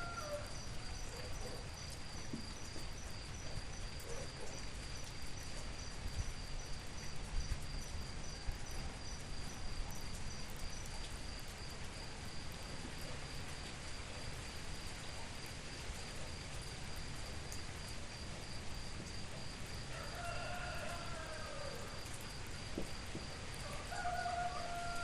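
Steady rain falling, with an insect's continuous high-pitched buzz over it. A short bird call comes about twenty seconds in and again near the end.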